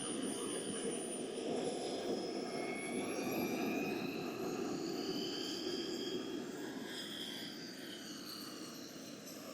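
Radio-controlled model jet's turbine flying past: a steady rushing roar with a high whine that slowly rises and falls in pitch as the aircraft moves, fading a little near the end.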